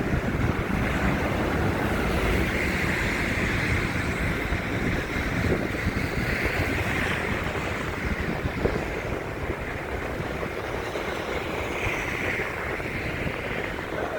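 Wind rushing over a phone's microphone, a steady rumbling noise without breaks.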